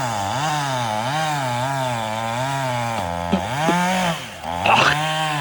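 Chainsaw cutting into a hickory tree, the engine's pitch wavering up and down under load. A little past four seconds it drops off briefly, then revs back up sharply.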